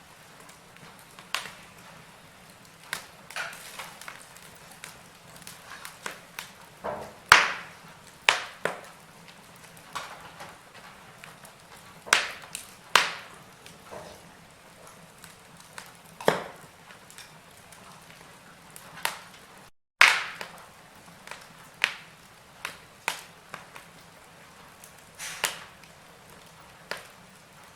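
Wood fire burning in a fireplace: irregular sharp crackles and pops, one every second or two, over a faint steady hiss. The audio breaks for a split second about two-thirds through.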